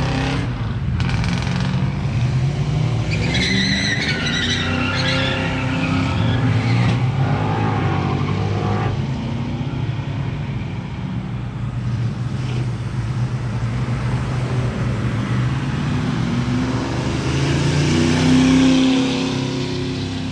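Loud car engines running and revving at a burnout event. A high-pitched wavering squeal, typical of spinning tyres, comes a few seconds in, and an engine revs up to a loud peak near the end.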